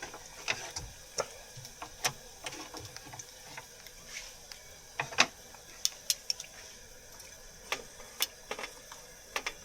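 Light, irregular clicks and clinks of cooking gear being handled, over a faint steady hiss.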